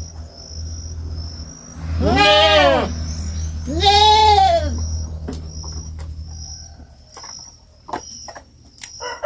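A young goat (kid) bleating twice, two drawn-out calls about a second and a half apart, each rising and then falling in pitch. A few faint clicks follow in the second half.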